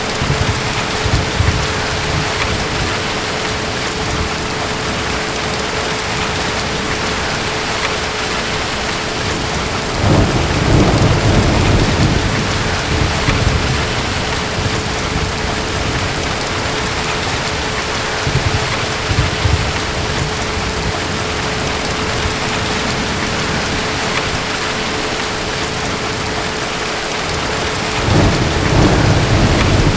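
Steady rain falling in a thunderstorm, with distant thunder rumbling low about a third of the way in and again near the end.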